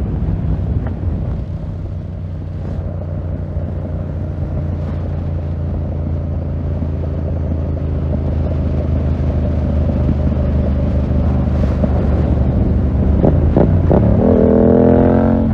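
2020 Yamaha MT-07's 689 cc parallel-twin running through a full SC-Project 2-1 exhaust under way, holding a steady low note that slowly grows louder. Near the end the revs dip briefly, then climb again.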